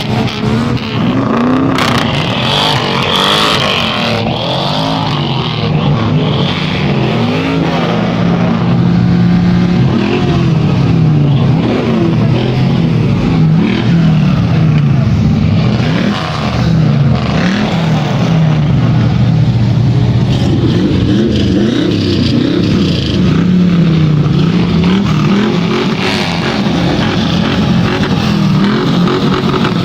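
Several V8 muscle car engines revving again and again, their pitch rising and falling with each blip of the throttle, often overlapping.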